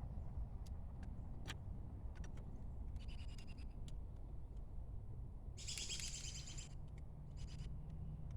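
A songbird chirping in three short bouts, the longest and loudest about six seconds in. Under it runs a steady low rumble with a few small clicks.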